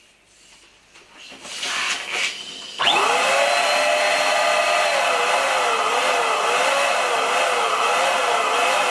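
Electric air pump inflating a giant balloon. A rushing noise builds, then the motor switches on with a quick rising whine just under three seconds in and runs steadily. From about halfway through, its pitch wobbles up and down about twice a second.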